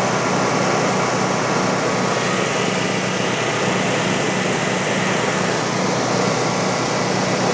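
Frontier OS35 band sawmill running steadily under load, its band blade cutting through a wide tulip poplar log in one continuous pass.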